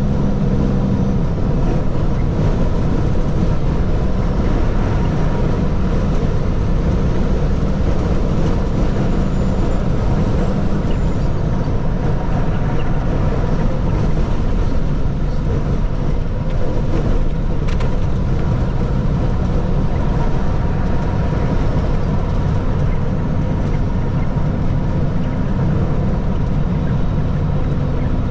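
Heavy water truck's engine running steadily under way, with a constant low rumble of engine and road noise.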